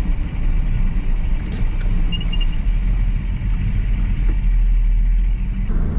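Old pickup truck driving on the road, heard from inside the cab: a steady low engine and road rumble. Three short high beeps sound about two seconds in.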